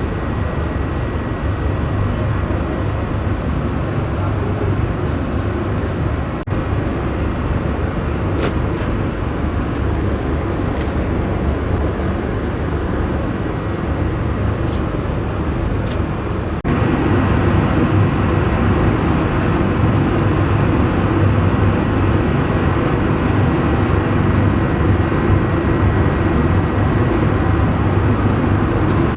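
Steady airliner cabin noise inside a Boeing 787-8: a low rumble and rush from the engines and the airflow. It changes abruptly about 6 s and 17 s in, and it is louder after the second change.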